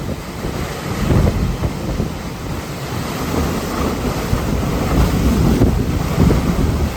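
Hurricane eyewall winds blowing in loud, surging gusts, buffeting the microphone with heavy wind noise.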